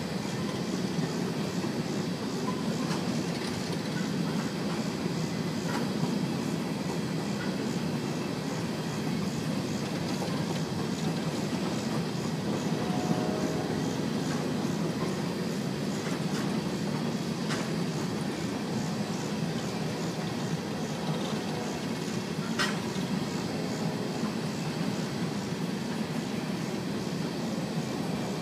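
Empty BNSF coal train's cars rolling past steadily, the wheels rumbling and clacking over the rail, with a few sharp clicks.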